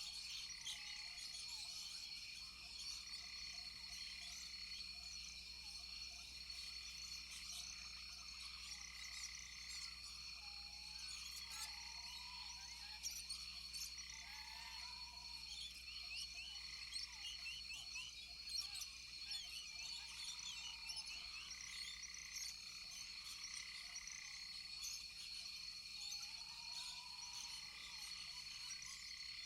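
A rainforest chorus of frogs over a steady, high insect drone. Short rising-and-falling frog calls repeat every few seconds, with many quick chirps throughout.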